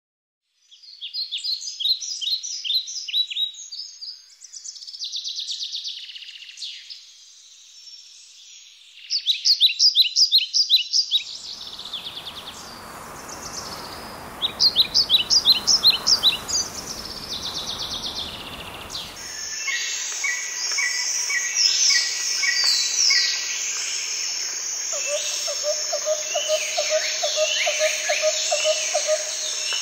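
Birds singing in short, fast trilled phrases, repeated again and again. About a third of the way in, a soft rushing noise joins them. Around two-thirds of the way in, that gives way to a dense chorus of chirping birds over a steady high insect buzz.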